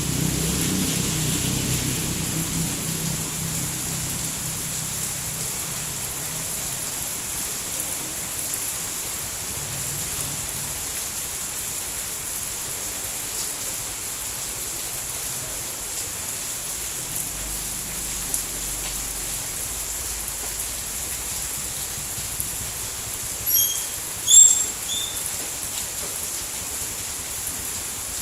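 Steady rain falling, an even hiss of many drops. A few short high chirps sound about three-quarters of the way through.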